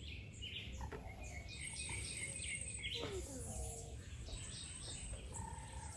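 Small wild birds at a feeding station chirping and twittering: many short high chirps overlapping, with a fast, very high trill lasting about a second, starting about one and a half seconds in.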